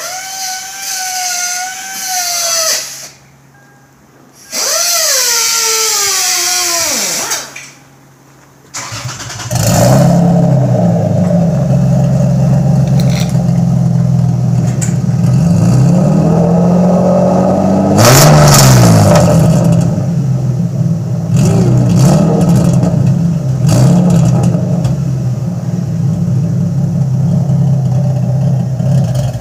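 Lexus IS300 with a Speed Daddy full exhaust: two bursts of starter whine, then the engine fires about nine seconds in and idles loudly through the exhaust. It is revved several times, highest about halfway through, and cuts off near the end.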